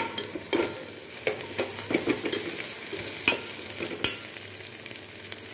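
Onions, ginger-garlic paste and green chillies sizzling in oil and ghee in a metal pot, with a slotted metal spatula scraping and clicking against the pot at irregular moments as it is stirred.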